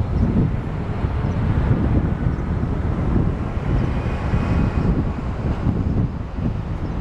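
Jet engine noise of an Airbus A319-112 on its landing approach: a low, uneven rumble, with wind on the microphone.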